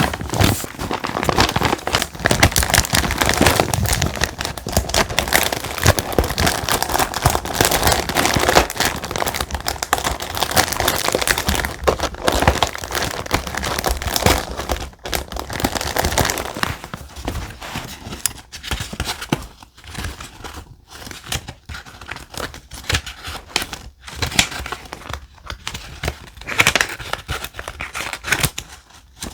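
Thick, textured paper being handled and crinkled, a dense continuous crackle for about the first half, then sparser separate rustles with short pauses.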